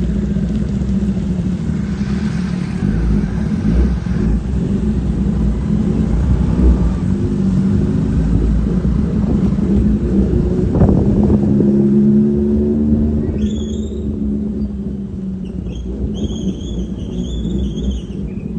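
A motor vehicle's engine running with a steady low rumble. In the last few seconds a high warbling tone sounds over it.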